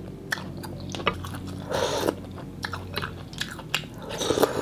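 Close-miked chewing of a mouthful of mì Quảng noodles, with soft wet mouth sounds and small irregular clicks.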